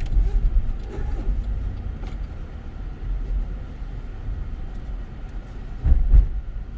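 Steady low road and engine rumble heard from inside a moving car, with a heavier low thump about six seconds in.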